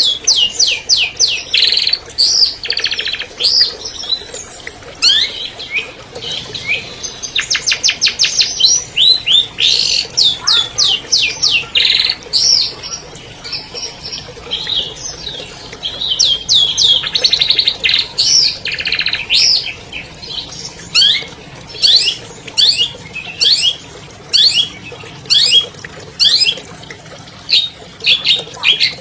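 Long-tailed shrike (cendet) singing a fast, varied song of short high whistled notes, sweeps and buzzy trills with hardly a pause.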